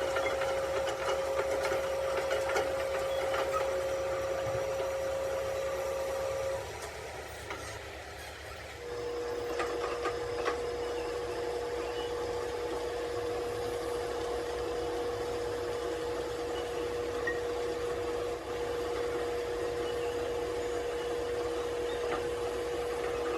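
A workshop machine motor running steadily with a constant whine. It winds down about six and a half seconds in, then starts up again two seconds later at a slightly lower pitch and runs on.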